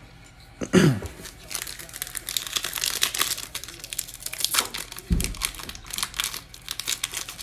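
A foil trading-card pack wrapper crinkling and tearing as it is opened and handled, in dense crackles. There is a short, loud low sound falling in pitch just under a second in, and a low thump about five seconds in.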